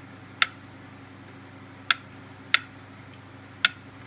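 Tipping-bucket rain gauge's seesaw bucket tipping over as water is poured in: four sharp clicks at uneven spacing. Each tip is one count registered by the gauge's magnet switch.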